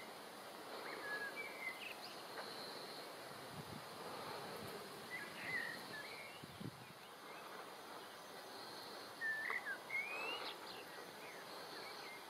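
Outdoor ambience with small birds calling: short chirps and rising whistles come and go over a steady faint hiss, loudest about nine to ten seconds in.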